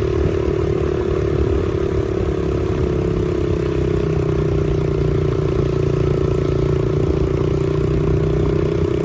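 2007 Honda CRF70 dirt bike's small single-cylinder four-stroke engine running steadily at low speed while riding slowly, its pitch dipping slightly and then rising a little near the end.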